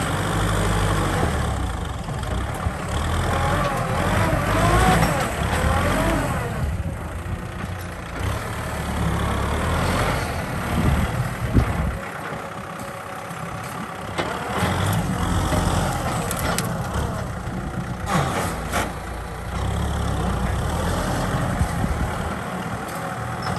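Kubota M6040 tractor's four-cylinder diesel engine running as it works the field, its low rumble swelling and easing.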